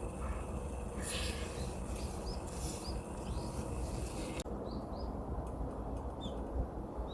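Small birds chirping: short high calls every second or so, over a steady low rumble, with a hiss that stops suddenly about four and a half seconds in.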